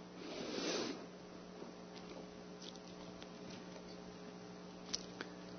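Steady low electrical hum in a pause of a man's preaching, with a soft breath-like rush in the first second and two faint clicks near the end.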